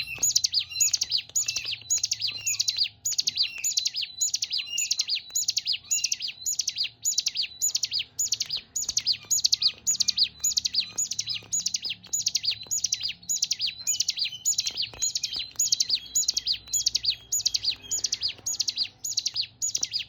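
Ciblek gunung (mountain ciblek, a prinia) calling: a high, sharp note repeated about twice a second in a steady, unbroken run.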